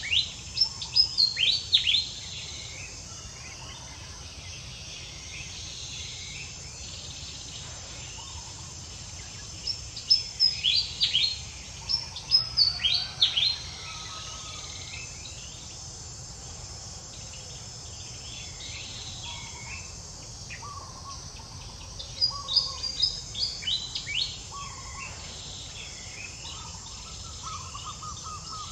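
A bird's song of quick, high, descending chirps comes in bursts about ten seconds apart. Under it runs a steady high hiss of insects.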